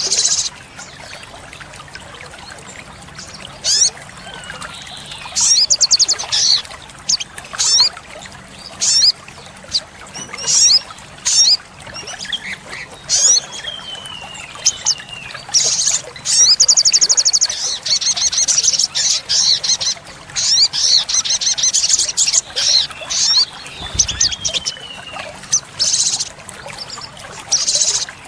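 Olive-backed sunbird singing: bursts of high, rapid chirps and trills, with a long fast trill a little past the middle and a few thin notes sliding downward in pitch.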